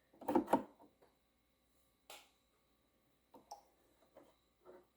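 Light handling noises and small clicks of a Brother XR3774 sewing machine's built-in needle threader being worked. There is a short muffled sound just after the start, a sharper tick about two seconds in and a few faint clicks near the end.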